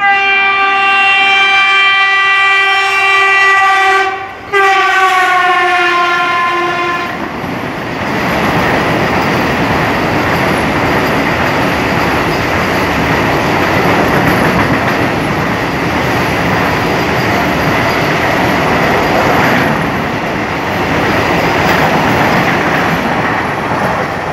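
Train 18 (Vande Bharat Express) semi-high-speed electric train sounding a long multi-tone horn, a short break, then a second blast that drops in pitch as it goes by. The horn gives way to the steady rushing noise of the train's coaches speeding past, with wheel clatter on the rails.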